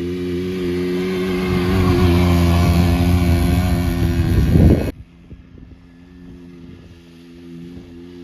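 Quadzilla Stinger 100's 95.6cc two-stroke quad bike engine running, its note growing louder over the first few seconds. About five seconds in it drops abruptly to a quieter, steady running note.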